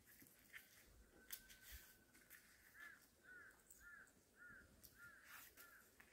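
A faint bird calling in the background: six short, hooked notes about two a second, over near-silent ambience with a few soft clicks.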